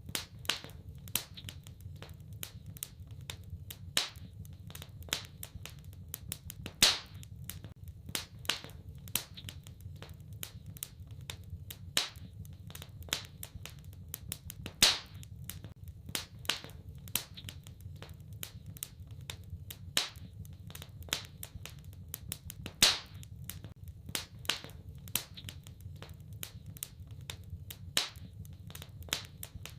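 Wood fire crackling in a fireplace: a steady patter of small, irregular crackles with a louder sharp pop every few seconds, over a low steady rumble.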